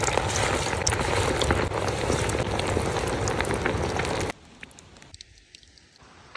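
Chicken deep-frying in hot oil: a dense sizzle full of fine crackles that cuts off suddenly about four seconds in, leaving only a faint background.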